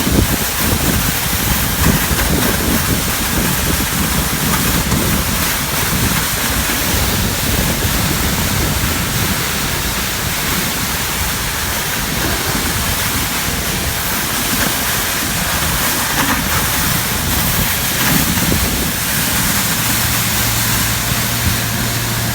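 Ski-Doo Formula Plus snowmobile being ridden, its two-stroke engine buried under a steady rush of wind on the microphone. Near the end a steady low engine hum comes through more clearly.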